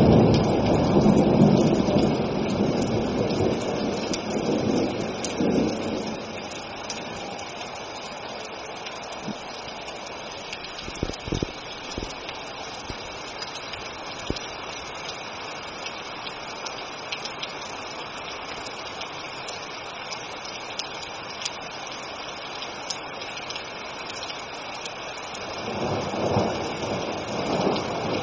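Steady rain falling, with a roll of thunder rumbling away over the first several seconds and another rumble of thunder building near the end. A few short sharp taps sound about eleven seconds in.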